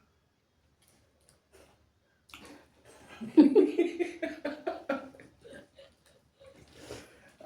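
A short burst of laughter about three seconds in, pulsing quickly and falling in pitch, with faint mouth and eating clicks of a meal eaten by hand around it.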